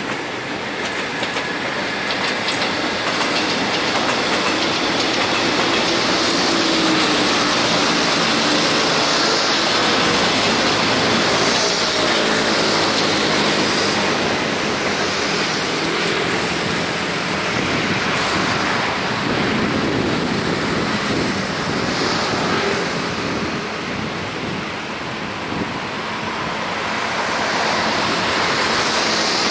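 Taiwan Railway EMU400 electric multiple unit passing at speed: a steady rumble of wheels on the rails with a few faint clicks. The rumble eases off as the last cars go by.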